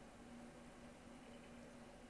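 Near silence: faint steady hiss and a low hum.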